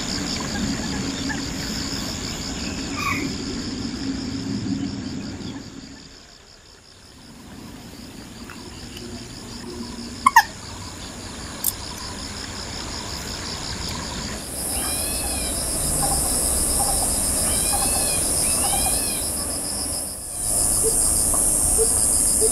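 Wild-bird field recording: a steady pulsing insect trill, then, after a break about two-thirds of the way in, a bird's repeated short up-and-down call notes over a high insect hiss.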